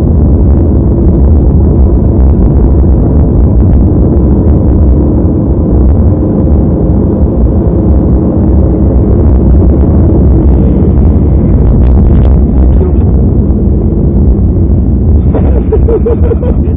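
Loud, distorted rumbling road and engine noise of a moving car, picked up by an overloaded dashcam microphone. A voice comes in near the end.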